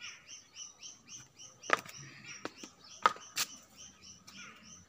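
A small bird calling in a fast, even series of high chirps, about five a second. A few sharp clicks cut in around the middle.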